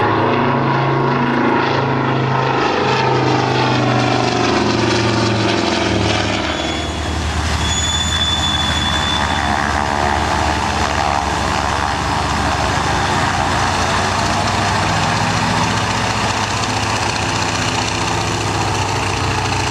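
Propeller aircraft engine flying past, its engine note bending in pitch as it goes by. The sound changes about six and a half seconds in and settles into a steady drone.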